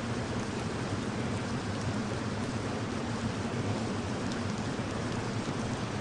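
Steady rain sound.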